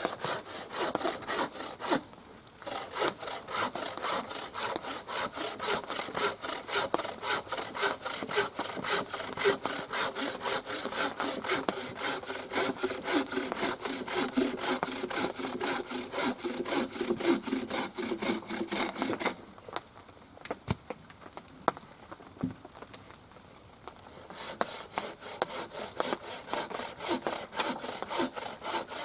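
Hand saw cutting through wood in quick, even back-and-forth strokes. The sawing stops for a few seconds about two-thirds of the way through, with a couple of knocks, then starts again.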